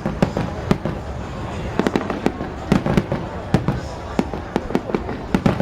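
Fireworks going off: an irregular string of sharp bangs and pops, several a second, some louder than others.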